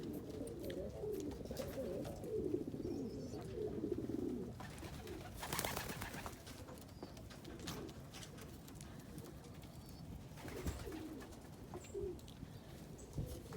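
Fantail pigeons cooing, a dense run of low, warbling coos that thins out after about four seconds. A brief rustling burst comes about five and a half seconds in, and scattered soft coos and clicks follow.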